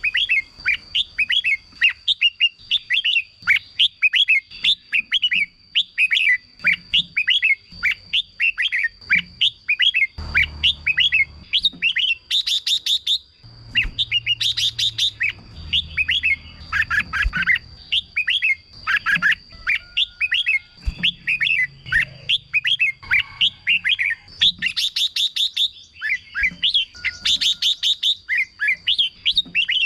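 Red-whiskered bulbuls singing: quick, continuous chirping phrases, broken every few seconds by short, harsh rattling bursts. A faint, steady high thin tone runs underneath.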